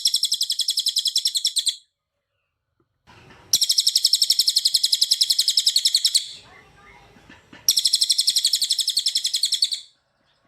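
Cililin songbird singing three long, very fast trills of rapid, evenly repeated high notes, with short pauses between them: the dense 'tembakan rapat' burst song.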